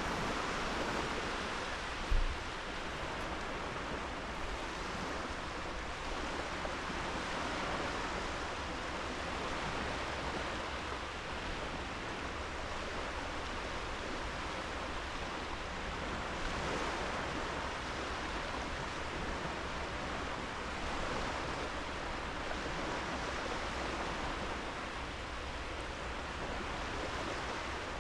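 Gentle sea waves washing onto a sandy beach: a steady, even hiss of surf. A brief low thump about two seconds in.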